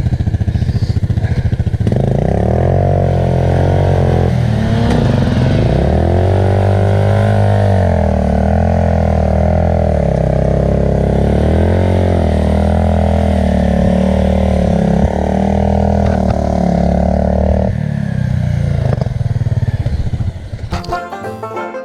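Enduro motorcycle engine running, its pitch rising and falling again and again with the throttle through most of the stretch, then settling lower. Banjo music comes in near the end.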